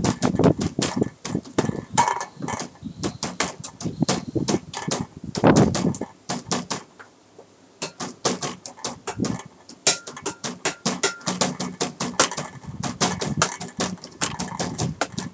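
Improvised percussion beat made from tapping, clicking and knocking on everyday objects such as a water bottle, a beer can in a glass, a computer mouse and a table, with low thumps for bass. It drops away briefly about seven seconds in, then picks up again.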